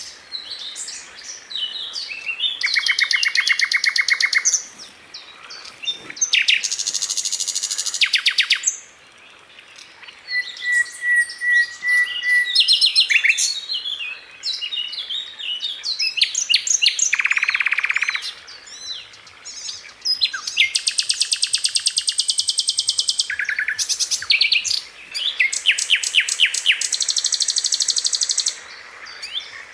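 Sikatan londo flycatcher singing: bursts of very fast, tightly packed repeated notes and rattling trills, a few seconds each with short pauses between, and one short level whistle near the middle.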